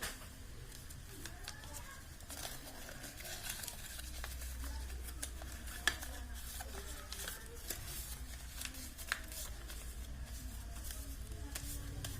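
Sheet of origami paper being handled and folded: scattered crinkles and light taps, with two sharper creasing snaps about six and nine seconds in, over a faint low hum.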